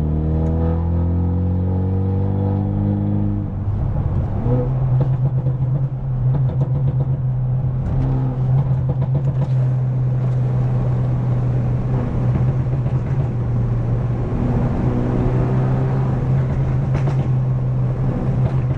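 Straight-piped BMW F30 328i's turbocharged four-cylinder exhaust under way: the engine note rises in pitch as the car accelerates for the first few seconds, then settles into a steady drone while cruising, with a short rise again near the end.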